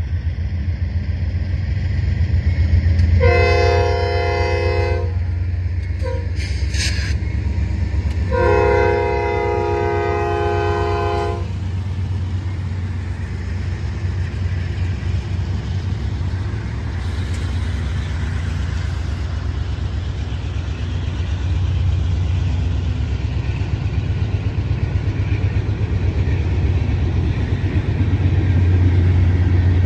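Norfolk Southern diesel locomotive blowing its horn at a grade crossing: two long blasts about three and eight seconds in, with a short sound between them. Under the horn the diesel rumbles steadily as the locomotive passes, and then the oil train's tank cars roll by over the rails.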